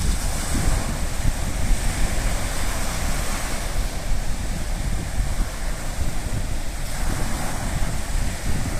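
Sea waves washing onto the shore in a steady hiss, with wind buffeting the microphone in a low, fluttering rumble.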